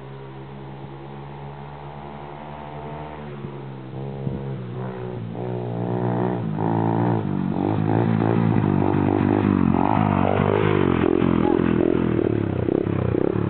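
Pit bike engine revving, getting louder from about four seconds in as it comes up the hill, its pitch rising and falling with the throttle.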